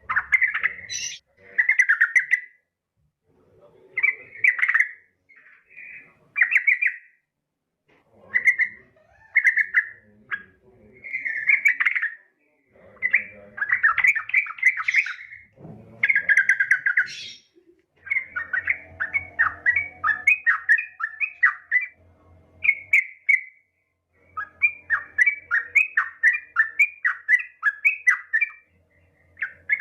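Yellow-vented bulbul (trucukan) calling: short bubbling, chattering phrases repeated with brief gaps, and in the second half longer runs of quick repeated notes. The calls are presented as a female calling to a male.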